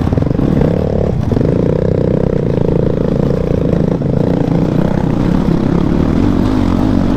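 Motorcycle engine running under way, with a steady engine note held for a few seconds before it eases off.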